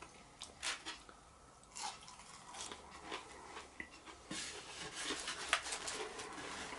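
Faint close-up chewing and crunching, with scattered short crackles that grow busier in the second half, as a breaded chicken burger is eaten.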